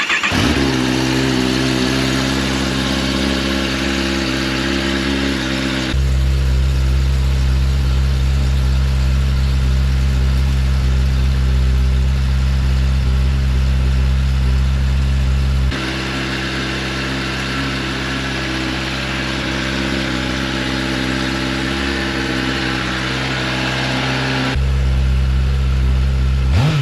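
A 2022 Kawasaki ZX-10R's inline-four engine idling steadily on its stock exhaust, just after a cold start. The tone shifts abruptly three times, about six, sixteen and twenty-five seconds in.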